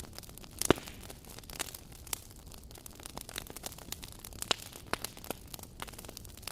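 Wood fire crackling: irregular sharp pops and snaps over a soft steady hiss, with one loud pop under a second in.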